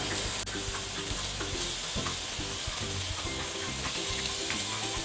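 Onion and tomato slices sizzling softly in a dry kadai on a low flame, a steady hiss, under quiet background music.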